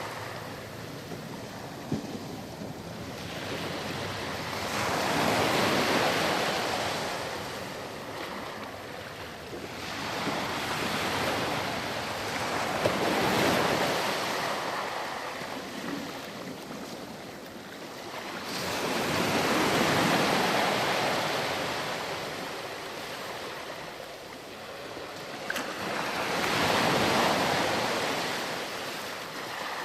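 Ocean surf on a beach: waves breaking and washing back, rising and falling about every seven seconds, four swells in all.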